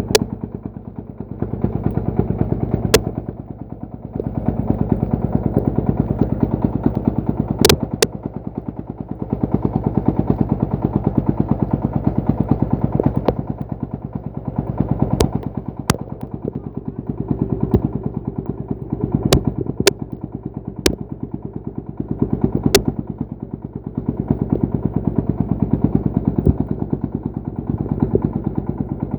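Single-cylinder horizontal diesel engine of a công nông farm truck chugging in rapid, even beats, its level swelling and easing every few seconds. Sharp clicks come now and then over the engine.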